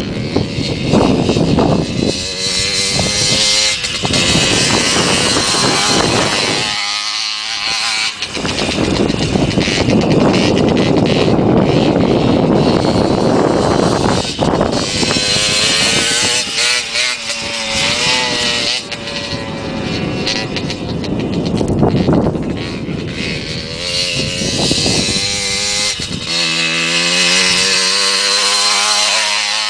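Motocross dirt bike engines running hard, pitch rising and falling as the throttle is worked, with a brief easing off about seven seconds in and a settling to a lower, steadier engine note near the end.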